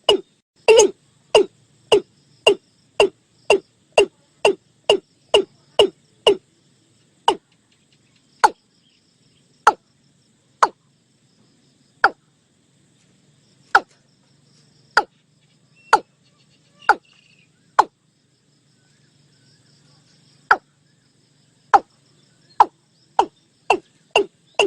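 Watercock calling: a series of short, pitched notes repeated about three times a second, slowing to single notes spaced a second or more apart through the middle, then quickening again near the end.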